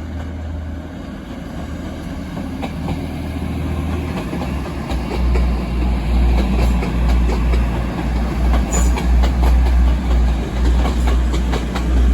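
Train moving through the station, growing louder about five seconds in, with a heavy low rumble and repeated clicks of wheels over rail joints.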